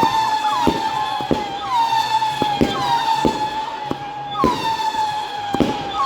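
Fireworks going off: a steady high whistle that keeps flicking up in pitch, over a regular run of sharp cracks about every two-thirds of a second.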